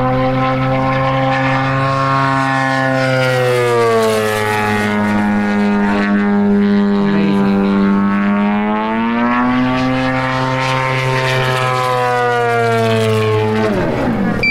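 The 100cc gasoline engine and propeller of a giant-scale 3D aerobatic RC airplane running in flight. Its pitch drops about four seconds in, climbs back up a few seconds later, and falls again near the end.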